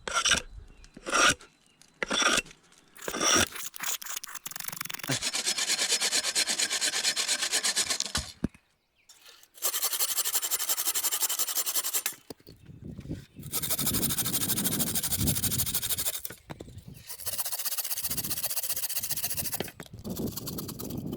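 Saw cutting through old bog oak: a few short strokes, then four runs of steady rasping cutting about three seconds each, with short pauses between them.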